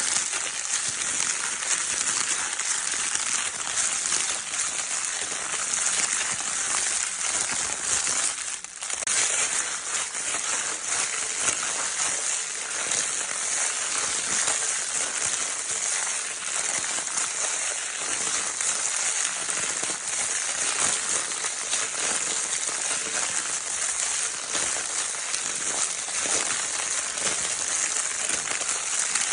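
Crinkle paper of a baby's crinkle toy being rustled and crumpled without pause, a dense, hissy crackle full of tiny crackles. It dips briefly about eight and a half seconds in.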